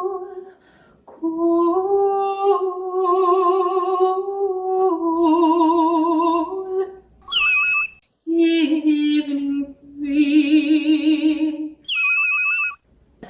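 A woman singing long wordless notes with a wavering vibrato, in several phrases with short breaks between them. Brief high falling chirps cut in between the phrases, about seven seconds in and again near the end.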